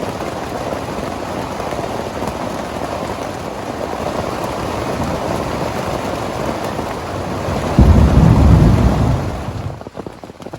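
Heavy rain pouring steadily, with a loud low rumble of thunder about eight seconds in. The downpour cuts off suddenly near the end, leaving scattered drips.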